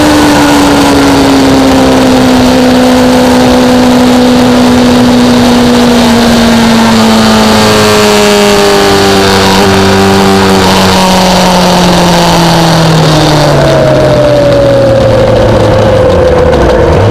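Sport motorcycle engine running at speed under steady wind noise. Its note falls slowly throughout as the revs drop and the bike slows down.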